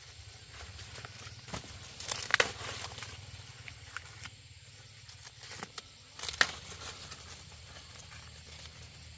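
A few short bursts of rustling and crackling, like dry material being handled or torn, over a faint low hum; the loudest comes about two and a half seconds in and another just past six seconds.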